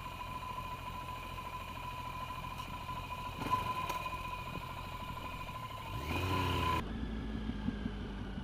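Motorcycle engine running under way, heard from the rider's position, with a brief knock about three and a half seconds in. About six seconds in the revs rise, then the sound changes abruptly.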